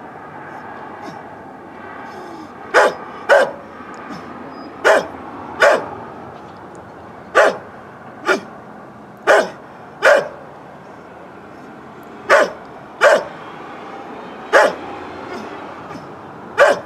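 An old dog barking: about a dozen short, sharp barks, in singles and pairs a second or two apart, starting about three seconds in.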